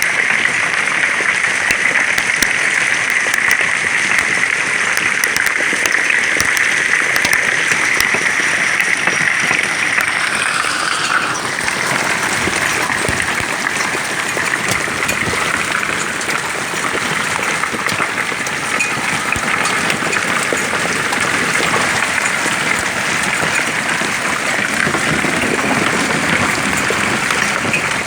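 Heavy hail, stones up to golf-ball size, pelting down in a dense, continuous clatter of countless impacts.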